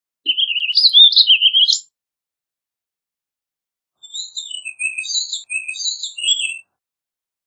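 Warbling vireo singing: a loud, rapid warbled phrase lasting about a second and a half, then, after a pause, a second, quieter and choppier phrase of high notes about four seconds in.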